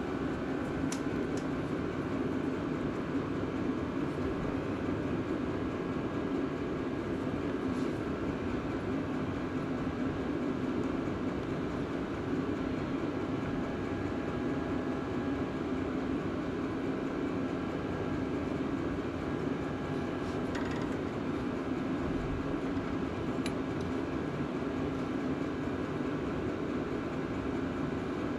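A steady droning background noise that does not change, with a few faint clicks scattered through it.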